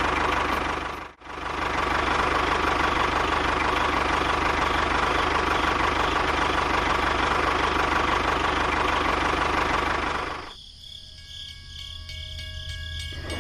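A small engine running steadily with a constant whine in it. It breaks off for an instant about a second in and resumes, then gives way near the end to a much quieter passage with a few faint steady tones.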